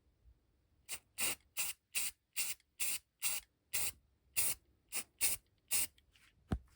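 Tamiya Spray Work airbrush spraying paint in about a dozen short hissing bursts, roughly two or three a second, as the trigger is pulsed. A single knock comes near the end.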